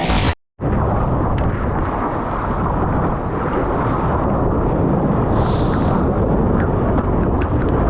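Loud, steady rumbling rush of surf water and wind buffeting an action camera's microphone, with small splashy ticks scattered through it. It starts after a brief dropout about half a second in.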